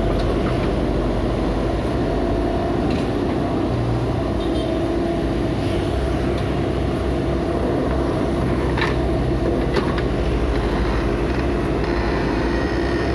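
Diesel engine of heavy demolition machinery (excavator or bulldozer) running steadily, with a few sharp knocks of metal or debris about nine and ten seconds in.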